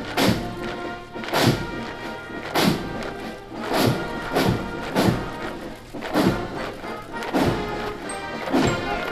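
Military band playing a march, with held brass-like tones and a heavy bass drum stroke about once a second.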